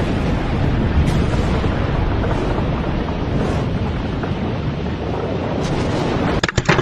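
Hailstorm: hail and rain pelting down in a dense, steady rush of noise. About six seconds in it turns into a run of sharp, separate knocks.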